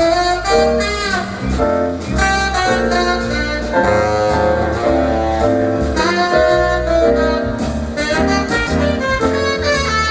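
Live jazz band playing, a saxophone carrying the melody over walking bass notes, piano and drums with cymbal strokes.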